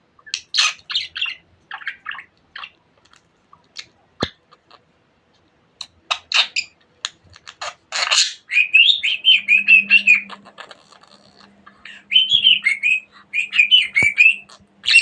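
Budgerigar chattering: scattered short chirps and clicks, then quick warbling runs about eight seconds in and again near the end.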